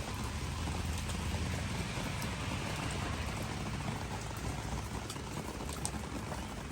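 Rain falling steadily on garden vegetable and flower leaves: a dense, even patter with scattered sharper drop ticks, more of them near the end.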